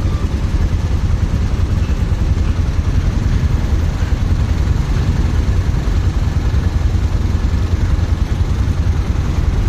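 Motorcycle being ridden, its engine and the road and wind noise holding steady and loud throughout.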